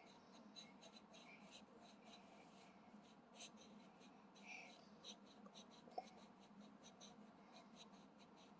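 Faint scratching of a coloring pencil or crayon on paper in quick, irregular strokes as a child colors, with a single sharp tap about six seconds in.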